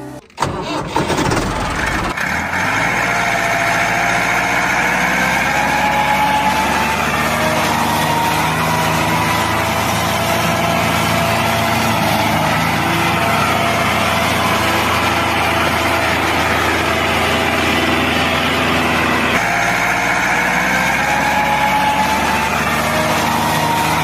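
A tractor engine starting and then running steadily at idle, its sound changing a little about two seconds in and again near the end.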